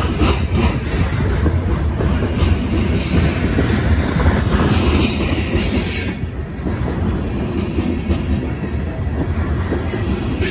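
Covered hopper cars of a grain train rolling past over the rails: a steady loud rumble of wheels on track, with rhythmic clacking in the first second or so. A brief high squeal comes a little past halfway.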